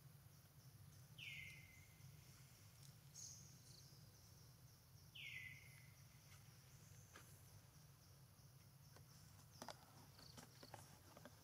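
Faint outdoor ambience: a bird's short call, falling in pitch, repeated about every four seconds, over a soft background hiss, with a few faint ticks near the end.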